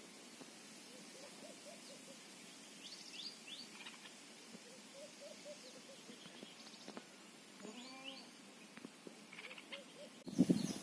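Faint outdoor ambience with birds calling: scattered short chirps and quick whistled sweeps, and runs of short repeated lower notes. Near the end a sudden, much louder noise cuts in.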